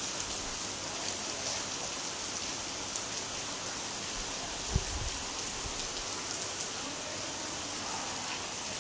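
Steady heavy rain falling and pattering on surfaces, with one short low thump about halfway through.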